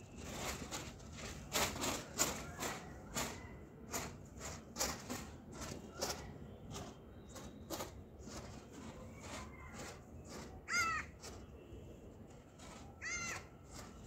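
A bird calls twice near the end, two short harsh calls a couple of seconds apart, over a scatter of faint short clicks and taps.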